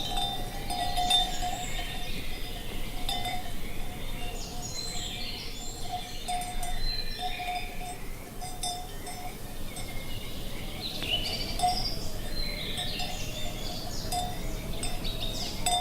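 Cattle bells clanking over and over in an irregular rhythm, with birds singing above them.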